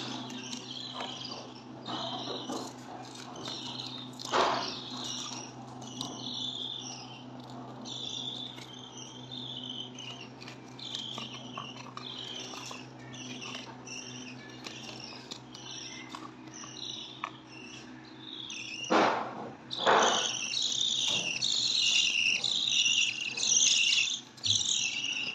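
Small birds chirping rapidly and repeatedly, high-pitched, growing busier near the end, over a low steady hum. A louder knock about four seconds in and two more close together near twenty seconds.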